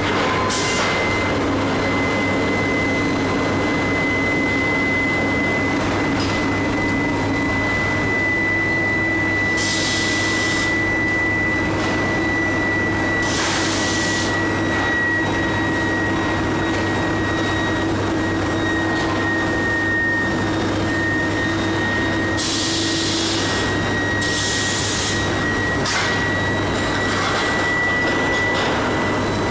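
Billet induction heating furnace running: a steady electrical hum under a high-pitched whine that wavers slightly in pitch, with short hissing bursts about ten, thirteen, twenty-three and twenty-five seconds in.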